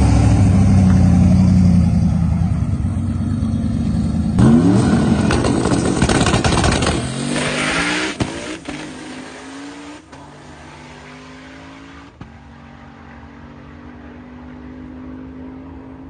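The turbocharged 6.0-litre V8 of a 1980 Toyota SR5 pickup drag truck running hard under full throttle. Its pitch climbs and drops with each manual gear change, then it grows fainter as the truck pulls away.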